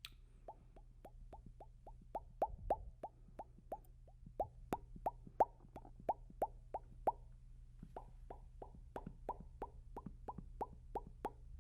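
Mouth sounds made close to a binaural microphone: a rhythmic run of wet tongue pops, about three a second, each dropping slightly in pitch, with a brief pause near the middle. A low, steady background hum runs underneath.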